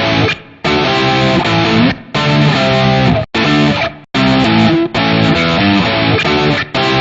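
Music with strummed guitar chords, starting abruptly, played in phrases about a second long with short breaks between them.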